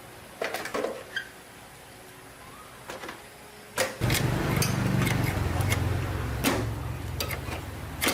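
A few clicks and knocks, then about four seconds in a motor starts abruptly and runs with a low, steady hum, with sharp metallic clicks over it.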